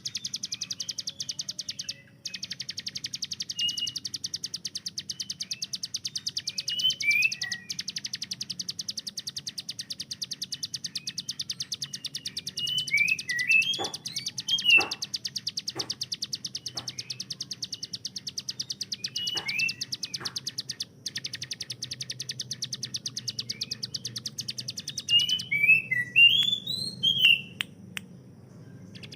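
Ciblek gunung singing its rapid-fire 'tembakan', a fast machine-gun-like rattling trill, with short whistled chirps over it. The trill breaks off for an instant twice and stops near the end, where a few louder chirps follow.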